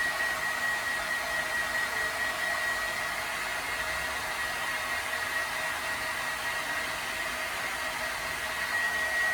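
Hair dryer running steadily: a hiss of blowing air with a thin, steady high whine.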